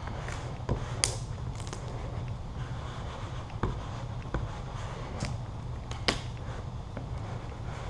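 Squeegee strokes pressing matte black vinyl wrap film onto a car hood: about seven short, sharp scrapes and clicks over a steady low hum.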